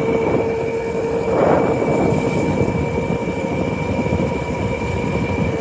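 Motorcycle running at a steady speed on the move: a constant engine whine over rumbling wind and road noise, with a brief swell of rushing air about a second and a half in.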